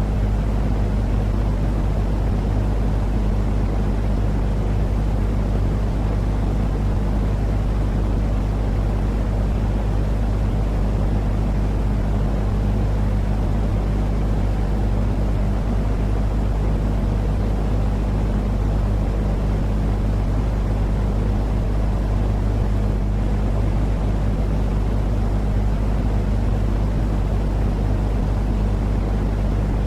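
Continuous sleep-aid noise for a baby, a steady deep rumble heavy in the bass with a low constant hum under it and no change in level or pitch.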